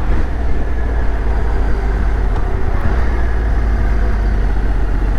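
Motorcycle riding at steady road speed: a low engine and road rumble with wind rushing over the microphone.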